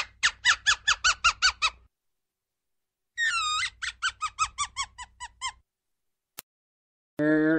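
Ground squirrel alarm calls: two bouts of rapid, high chirps. Each bout opens with a longer downward-sliding note and is followed by about eight to ten short chirps in quick succession.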